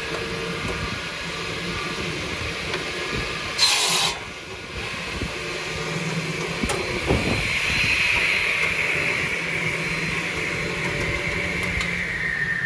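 Madrew DCKRR40 triple-blade cross-cut saw for pallet boards running with a steady whine; about three and a half seconds in, a short loud burst as the blades cut through a board, and near the end the whine drops in pitch.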